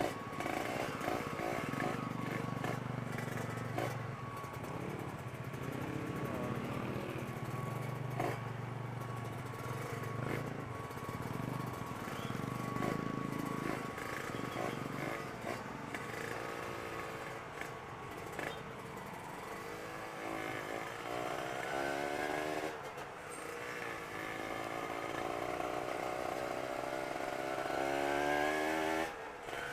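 Motorcycle engine running under the rider, steady at first, then revving up repeatedly in the second half with rising pitch, as it accelerates through the gears.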